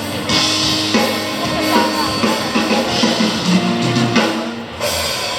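Live band playing through a festival PA during a sound check: drum kit with bass drum, snare and cymbals under sustained guitar and keyboard chords.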